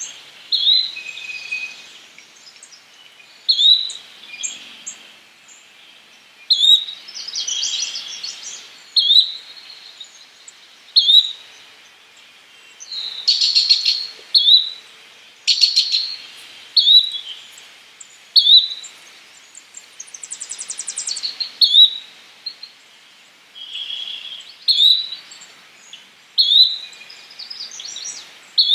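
Yellow-bellied flycatcher calling: a short, sharp note repeated about every one to two seconds, with several louder buzzy, rattling trills mixed in.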